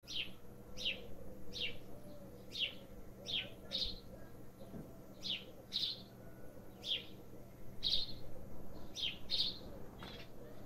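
A small bird chirping over and over: about a dozen short, sharp high chirps, roughly one every second or less, some in quick pairs, over a faint steady low hum.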